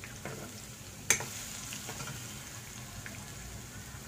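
Chopped onion, garlic and ginger frying in hot coconut oil in a non-stick kadai: a steady sizzle. A few light scrapes near the start and one sharp knock about a second in come from a steel spoon striking the pan as the pieces are stirred.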